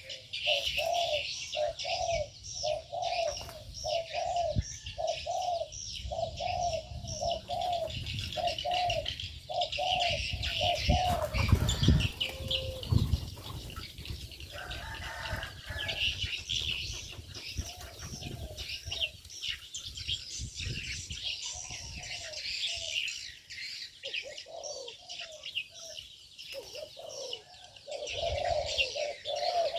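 Mixed aviary birds. A dove coos in a run of repeated low notes, about two a second, through the first ten seconds and again near the end, while small birds chirp high and continuously. Around the middle there is a burst of low thuds with wing flapping.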